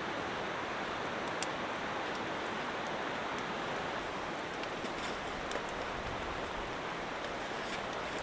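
Wood fire burning in an outdoor firebox: a steady hiss with scattered small crackles, and two sharper pops, about a second and a half in and near the middle.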